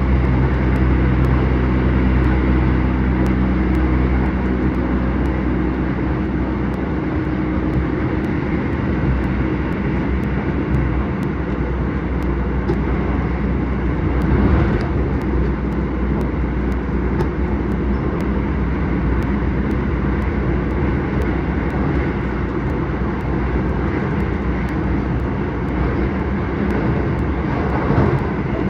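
A Keisei 3000 series electric commuter train running at speed, heard from inside the car: a steady rumble of wheels on rail. A hum of several steady low tones fades out over the first several seconds.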